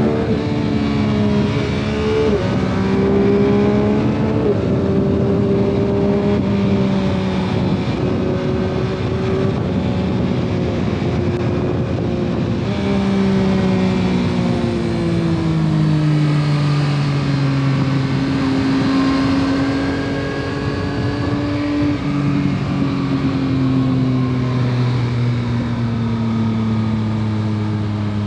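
2021 Yamaha MT-09 SP's 890 cc inline-three engine through its stock exhaust, under way. The engine note steps abruptly twice in the first few seconds, holds fairly steady, then falls slowly in pitch through the second half as engine speed drops. Road and wind noise run under it.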